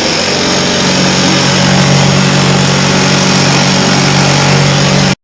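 Chicago Electric wire welder laying a bead: a steady arc buzz and crackle with a low hum underneath, cutting off suddenly about five seconds in as the trigger is released.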